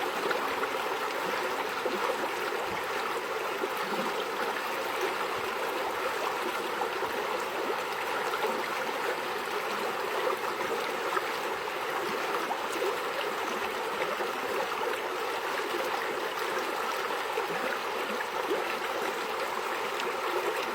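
Flowing water, running steadily and evenly without pause.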